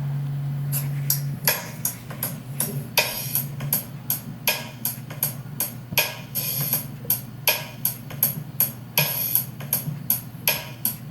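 Percussion beat of sharp, wood-block-like clicks, about two a second, over a low hum, with a low steady tone that stops about a second in; a rhythm intro with no ukulele playing yet.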